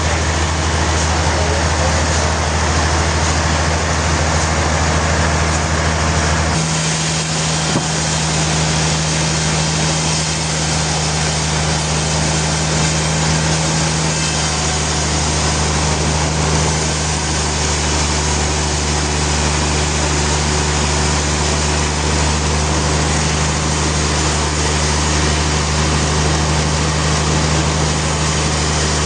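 Sawmill machinery running steadily with a low motor hum and a constant rush of noise, the hum shifting in pitch about six and a half seconds in.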